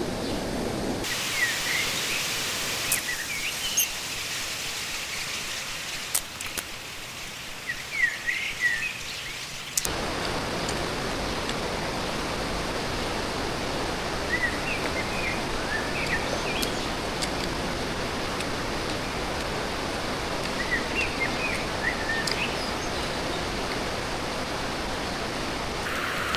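A fast-flowing stream rushing steadily, with birds chirping now and then. The rush turns thinner and hissier at about a second in and fuller again at about ten seconds, and a few sharp clicks fall in between.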